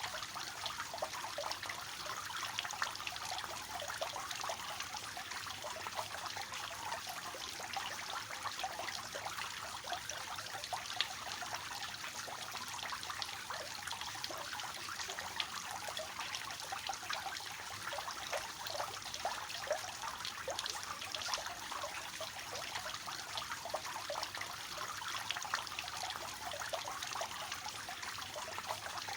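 Water splashing and trickling steadily from a tiered fountain, falling in a triple cascade, a dense patter of fine splashes.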